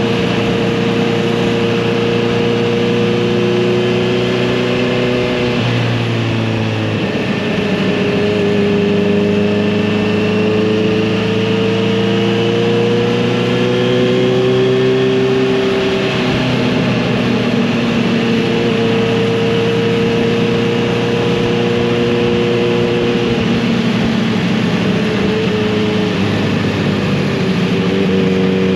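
Kawasaki Z900RS inline-four motorcycle engine and exhaust under way on the road. The note climbs slowly as the bike gathers speed, with gear changes about 6 seconds and 16 seconds in, where the pitch drops suddenly.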